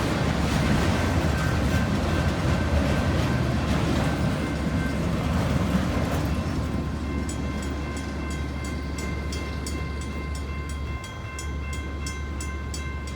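Autorack freight cars rolling past on the rails, a dense rumble and rattle of wheels that thins out about halfway through. After that a fast, regular ticking, about three a second, with steady ringing tones, is heard over the fading train.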